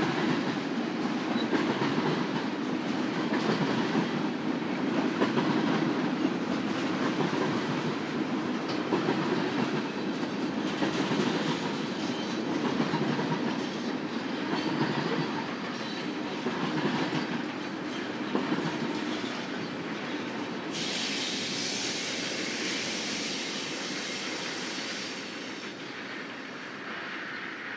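Freight cars of a Union Pacific manifest train rolling past, wheels clattering over rail joints, the sound slowly fading. About three-quarters of the way in a higher hiss joins.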